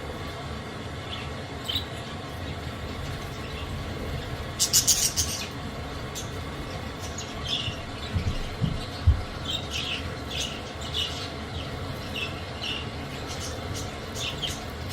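Budgerigars giving short chirps on and off, with a brief rattle of rapid clicks about five seconds in and a few low thumps around eight to nine seconds, over a steady background hum.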